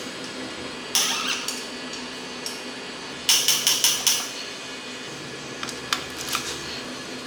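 Sharp metallic clicks and clinks of metal parts and hand tools being worked during the engine build, over a steady low hum. There is a cluster of clicks about a second in, a quick run of about six clicks in the middle, and a few scattered clicks near the end.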